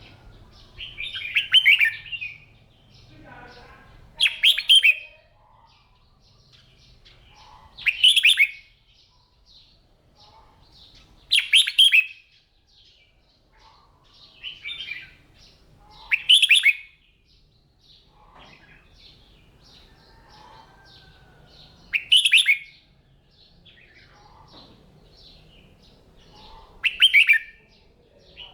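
Red-whiskered bulbul singing short, loud song phrases every three to five seconds, about eight in all, with softer chirps between them.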